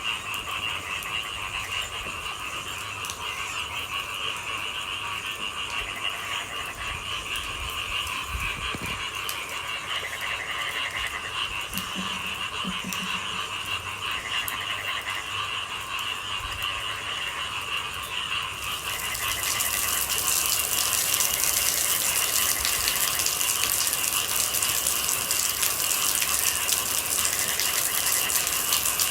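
Night chorus of frogs and insects, a steady trilling, with two short low frog croaks near the middle. About two-thirds of the way through, a hiss of rain comes in and grows louder.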